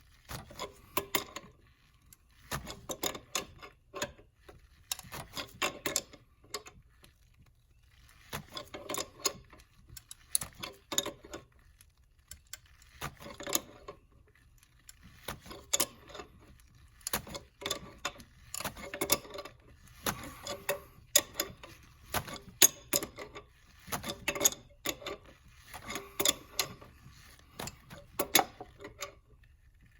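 Metal hand tools at work on the engine: rapid clicking and clattering in bursts of about a second, one after another.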